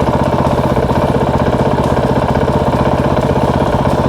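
Motorcycle engine idling steadily with a rapid, even putter, its pitch holding constant.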